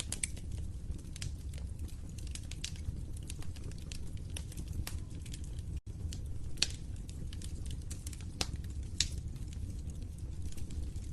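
Wood fire crackling: irregular sharp pops and snaps over a steady low rumble of burning logs. The sound cuts out for an instant about halfway through.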